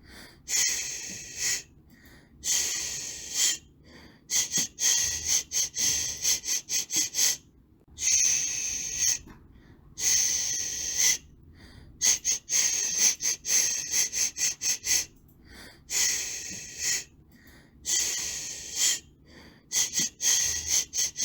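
Rhythmic shushing to soothe a baby: runs of quick, short 'shh' sounds, about four a second, alternating with longer held 'shhh's of about a second each, with brief pauses between.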